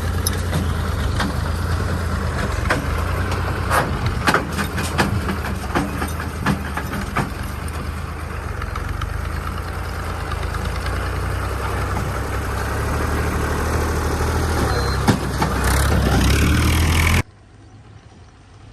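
Fiat 480 tractor's diesel engine running steadily while pulling a loaded sugarcane trolley, with scattered knocks and rattles in the first few seconds. The engine gets louder briefly, then the sound drops suddenly to a faint background shortly before the end.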